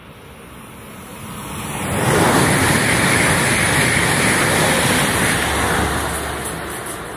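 Frecciarossa high-speed electric train passing through at speed, a rushing roar of wheels and air. It swells over the first two seconds, holds steady, then fades near the end.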